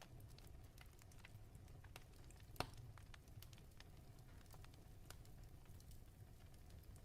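Faint fireplace fire crackling: a steady low rumble under scattered small pops and snaps, with one sharper crack about two and a half seconds in.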